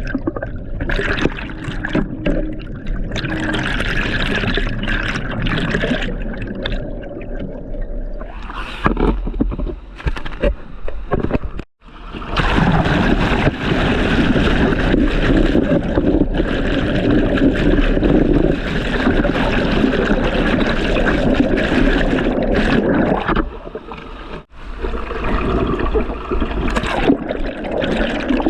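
Water splashing and gurgling, with two abrupt brief breaks.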